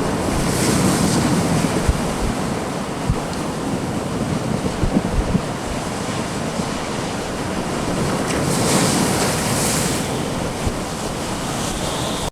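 Heavy storm surf breaking and rushing during a nor'easter, with strong wind. Gusts buffet the microphone with low thumps, and the surf swells up about a second in and again near the end.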